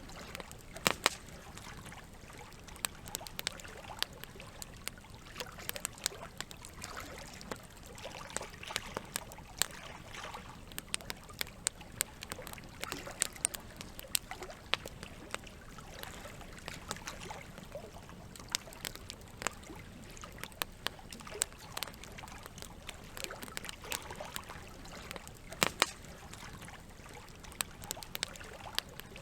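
Wood campfire crackling, with frequent irregular sharp pops and snaps, a couple of them louder, over a steady trickle of running water.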